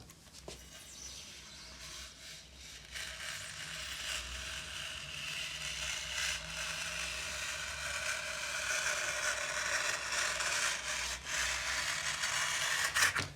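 Utility knife cutting through a polystyrene foam sheet: a continuous scraping that swells in from about three seconds in and grows louder.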